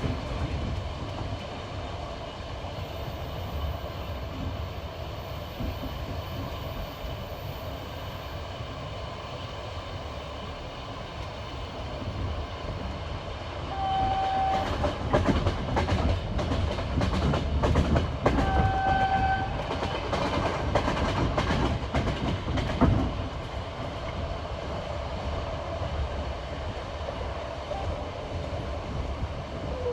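A passenger train's wheels clattering rhythmically over the rail joints of jointed track at speed, with a steady rumble underneath. Midway, the clatter grows louder for several seconds, and two short train horn blasts, each a single steady tone, sound about five seconds apart.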